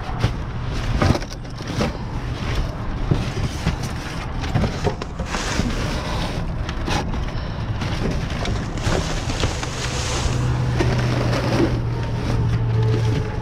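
Rummaging through discarded items in a dumpster: repeated crackling, crunching and knocking as bags, boxes and objects are moved and handled, with a low steady hum growing louder in the last few seconds.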